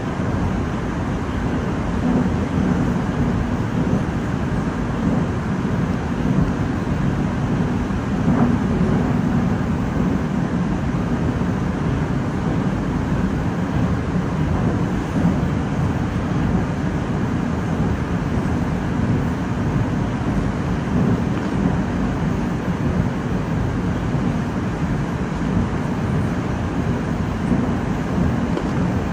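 Moskva-2019 metro train running between stations, heard from inside the car: a steady rumble of wheels and traction motors.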